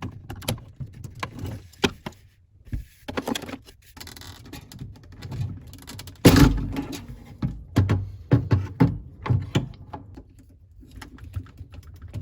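Clicks, knocks and rattles of hands disconnecting and removing a refrigerator's evaporator circulation fan motor, with a heavier thump about six seconds in.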